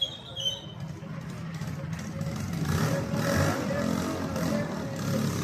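A road vehicle's engine running steadily, growing louder about halfway through.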